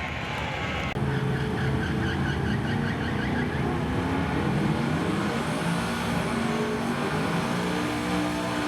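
Drag-racing truck engines running and revving, their pitch rising and falling. The sound changes abruptly about a second in and is louder after that.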